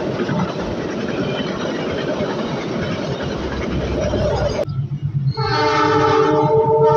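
Steady rumbling noise of a train running, cut off abruptly about four and a half seconds in. Then a train's chord horn sounds one long blast.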